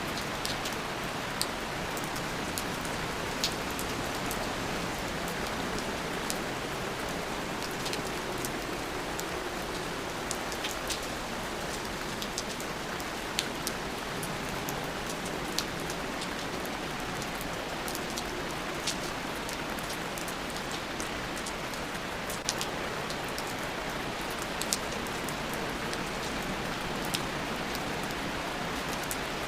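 Steady rain falling as an even hiss, with scattered sharper drop ticks a few times a second.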